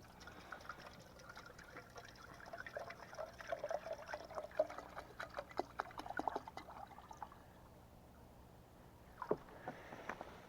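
Water being poured into a pot, trickling and splashing for several seconds before it stops, with a single knock near the end.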